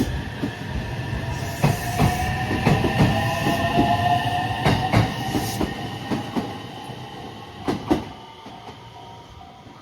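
Electric train running along the platform track: a string of wheel clacks over the rail joints with a whine running through it, both fading over the last few seconds as the train moves away.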